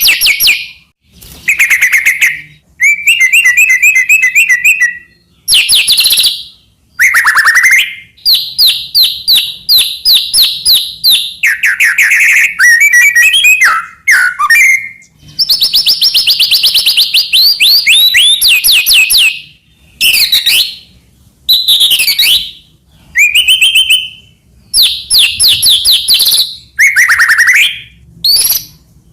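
White-rumped shama singing loudly and without pause, in a varied string of phrases. Each phrase is about one to two seconds of fast trills and sweeping whistles, and short gaps separate them.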